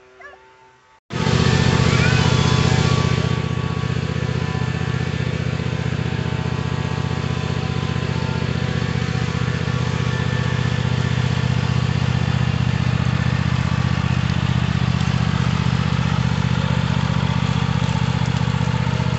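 Engine running steadily at a constant speed. It starts abruptly about a second in and is slightly louder for the first two seconds.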